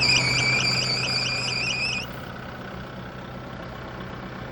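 Engine drive belt squealing on a bad top pulley of a Kubota broom tractor with the engine idling: a loud, high squeal with a slight wobble about four times a second that cuts off suddenly about two seconds in, as the pulley stops turning. The engine idles on underneath.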